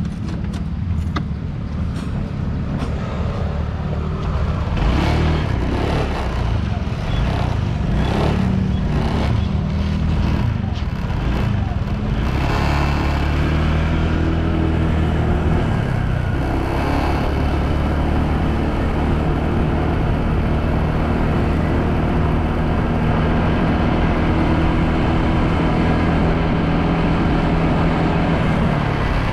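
Motorbike engine running steadily while riding along a road, under a haze of wind and road noise.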